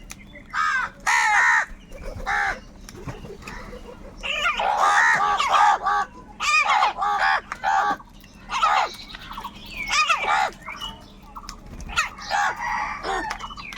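Crows cawing: harsh calls in short runs, with several birds overlapping in a dense stretch about four to six seconds in.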